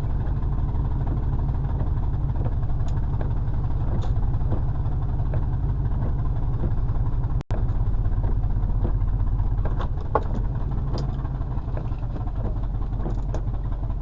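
Truck engine running steadily, a low rumble heard from inside the cab, with a few faint ticks and a brief cut-out about seven and a half seconds in.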